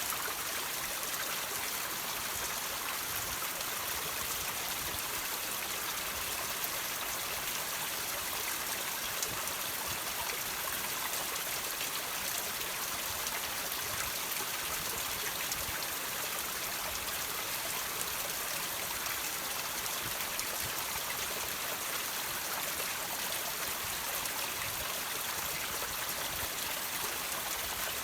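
Water trickling and dripping off rocks: a steady, even splashing hiss with small drops ticking through it.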